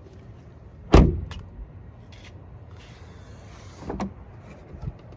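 Car door shut firmly about a second in, then a softer clunk about three seconds later as the door is worked again. This is the door being opened and closed to test it after its hinges and door check arm were greased against creaking.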